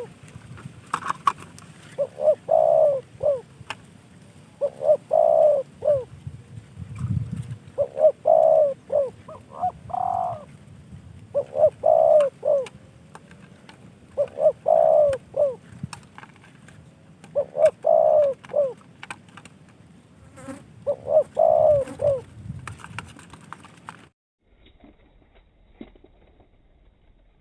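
Spotted dove cooing: a short phrase of a few notes repeated about every three seconds, eight times, before the sound drops away near the end.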